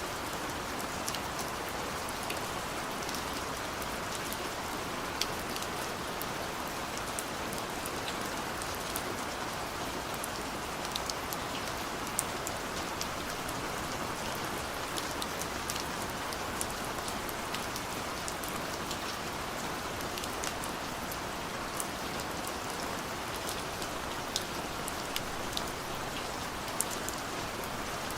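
Steady rain falling, an even hiss with many scattered sharp drops pattering on a hard surface.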